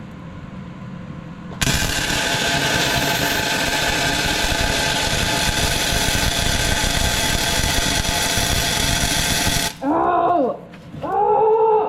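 A handheld power tool runs steadily at full speed for about eight seconds, then stops abruptly. Two short pitched sounds that rise and fall follow near the end.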